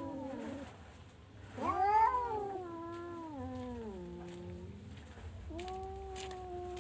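Orange domestic cat meowing in long drawn-out calls. One call trails off at the start, a second rises sharply about a second and a half in and then slides down over about three seconds, and a third starts about five and a half seconds in, held at a steady pitch.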